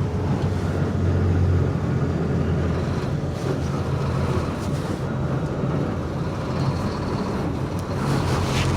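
Steady low rumble of vehicle engines with a noisy hiss over it: stopped or slow traffic.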